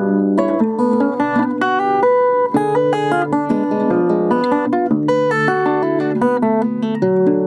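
Russian seven-string acoustic guitar played solo: a romance arrangement in a quick succession of plucked melody notes over ringing bass notes.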